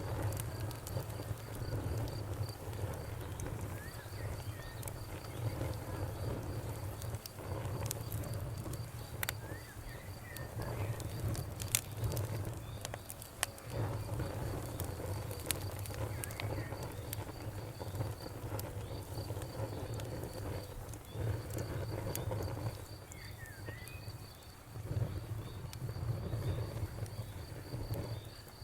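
Wood fire burning in a fireplace: a low, wavering rumble of the flames with sharp crackles and pops scattered throughout. A high, evenly pulsed chirping runs behind it, pausing for several seconds in the middle.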